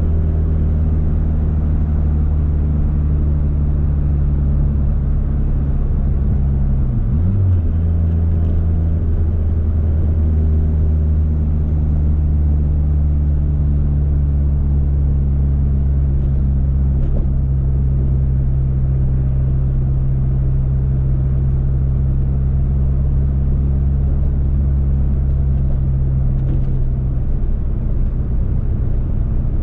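Mitsubishi Eclipse GSX's turbocharged 2.0-litre four-cylinder running at a steady, low cruising note. Its pitch dips and picks up again briefly about seven seconds in, and the note falls away near the end.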